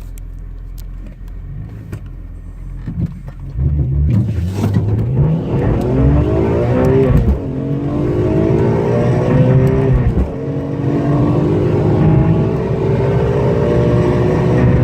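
BMW M3 engine idling, then launching and accelerating hard through the gears. Its pitch climbs steadily, with two upshifts about seven and ten seconds in, and the run grows louder as it goes.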